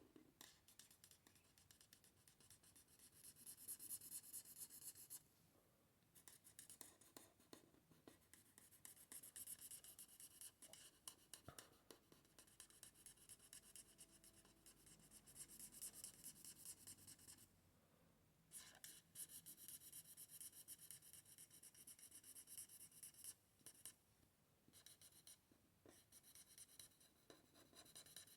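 Faint, fast scratching of a felt-tip marker nib rubbing back and forth on paper as a background is coloured in, in stretches broken by a few short pauses.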